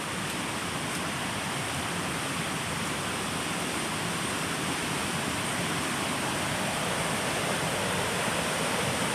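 Steady rush of water from a rainforest stream's waterfall, slowly getting louder.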